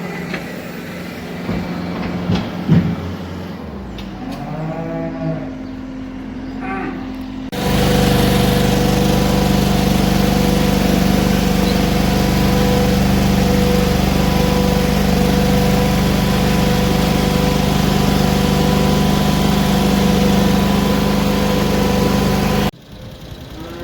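Cattle mooing, a few drawn-out calls, over the low sound of machinery. Then the engine of farm machinery runs loud and steady for about fifteen seconds and stops suddenly near the end.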